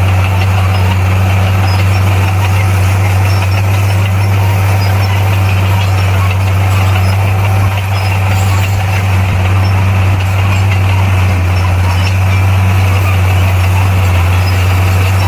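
Heavy earthmoving machine's diesel engine running steadily, a loud, even, low drone that does not rise or fall.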